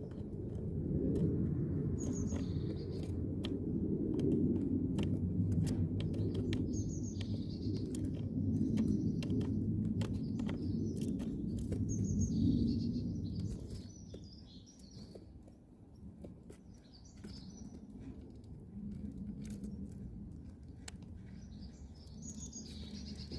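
Great tits chirping in short, high calls, over a low rumble and many scattered clicks. The rumble drops away about thirteen seconds in.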